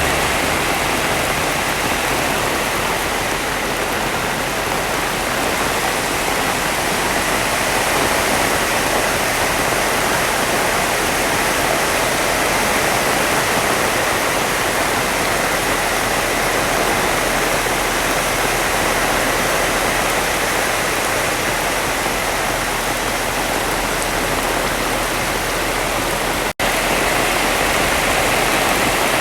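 Heavy rain falling steadily, an even hiss of downpour. It breaks off for an instant about three seconds before the end.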